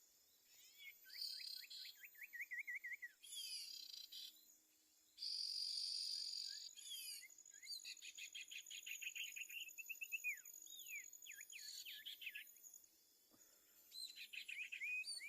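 Small birds calling: repeated rapid series of short chirps and downslurred notes, with a few harsh buzzing bursts, over a faint steady high insect tone.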